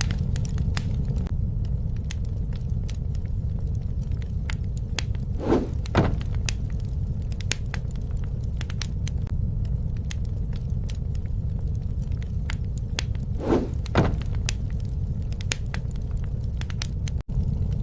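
Wood fire crackling: a steady low rumble of flames with frequent sharp snaps and pops, and two pairs of louder pops about six and fourteen seconds in.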